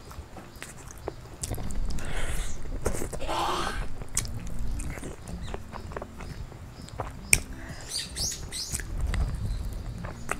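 Close-miked chewing and lip-smacking as a woman eats braised chicken off the bone, with many small wet clicks. A bird chirps a few times about eight seconds in.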